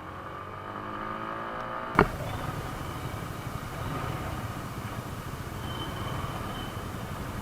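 Yamaha R15 V4's single-cylinder engine pulling up through the revs with its pitch rising, then a sharp click about two seconds in. After the click it runs on steadily under a rush of riding wind noise.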